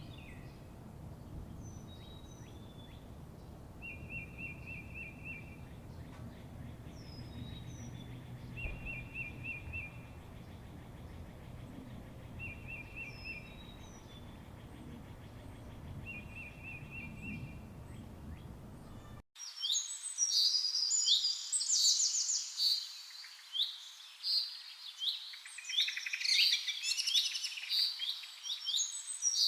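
Zebra finches calling. At first there are faint chirps and short repeated trills over a low background hum. After an abrupt cut about two-thirds of the way through, loud, busy chattering calls follow.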